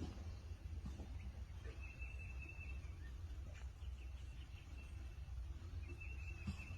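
A small bird's high, trilling call, about a second long, heard twice, over a faint low rumble.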